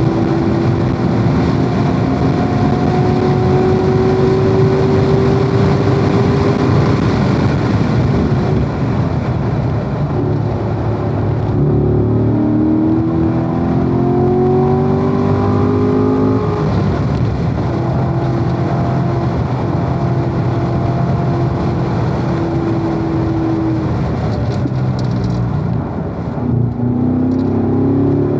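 Corvette engine at speed on a race track, pulling hard with its pitch rising for several seconds, easing off a little after a third of the way in, pulling up again, holding steadier, then dipping briefly and climbing again near the end. A steady rush of wind and tyre noise runs underneath.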